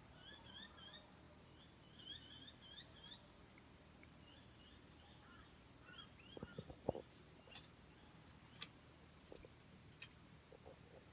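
Faint dusk bush ambience: a steady high-pitched insect drone, with a bird giving quick runs of short chirps in the first three seconds and again around five to seven seconds in. A campfire crackles with a few sharp pops, the loudest about seven seconds in.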